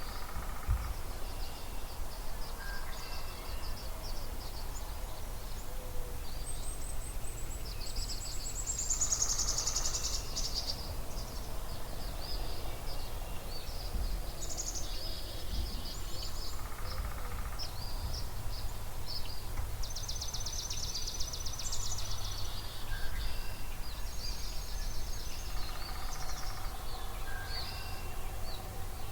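Dawn chorus of several songbirds at a spring marsh: overlapping songs, chips and rapid trills, one of them a quick descending series, over a steady low rumble.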